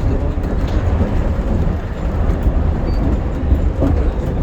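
Shonan Monorail 5000-series suspended monorail running at speed between stations: a steady low rumble of its running gear, heard inside the cabin.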